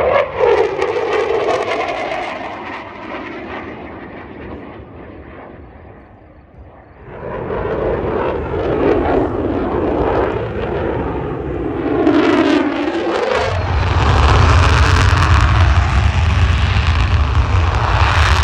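Airplane flying low past the crowd, its engine note sweeping down in pitch as it goes by, then a second pass with the same falling sweep. About 13 seconds in, a louder, deep rumbling roar takes over and holds.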